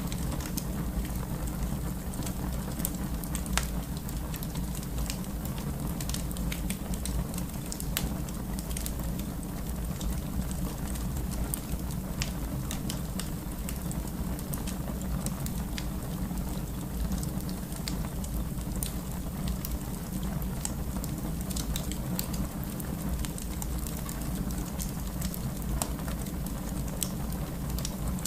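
Fireplace fire burning: a steady low rumble with scattered crackles and pops, one sharper pop about three and a half seconds in.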